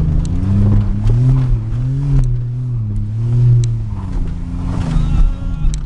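Pontiac Grand Prix engine heard from inside the cabin, its revs rising and falling about four times as it is driven off-road, with sharp knocks and rattles from the car jolting over rough ground.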